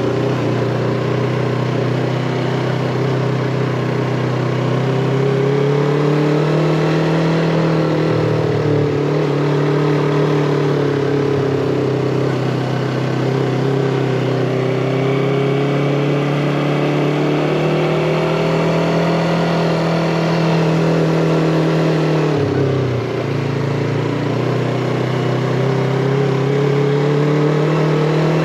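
Yamaha MT-25 parallel-twin motorcycle engine pulling up a steep climb, its pitch rising and falling with the throttle. The engine note dips sharply and briefly twice, about 8 seconds in and about 22 seconds in.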